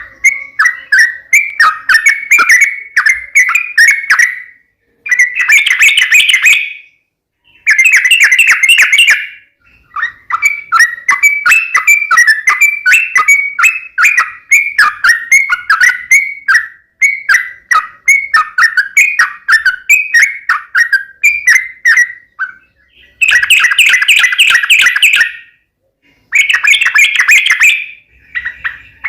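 Yellow-vented bulbul (trucukan) calling: bouts of rapid bubbly chattering notes around a middle pitch, broken up by denser, harsher chatter blocks about two seconds long, with short silent gaps between bouts.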